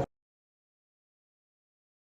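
Digital silence: the preceding sound cuts off abruptly right at the beginning, leaving nothing at all.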